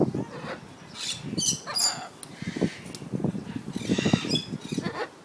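Caged tropical pet birds giving several short, high-pitched squawks and chirps, over repeated knocking and clattering.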